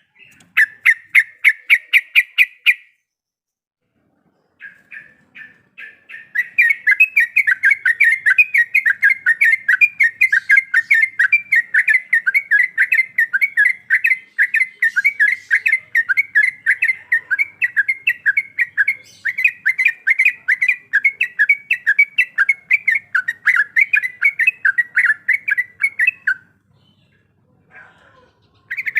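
Yellow-vented bulbul (trucuk) calling in rapid runs of repeated chattering notes. A short burst comes first, then after a pause one long continuous run of about twenty seconds that stops abruptly, and a brief burst again at the end.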